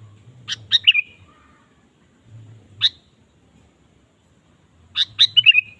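Sooty-headed bulbul (kutilang) calling. It gives a quick phrase of a few sharp notes ending in a falling slur about half a second in, a single note a little before halfway, and a longer run of rapid notes with falling slurs near the end.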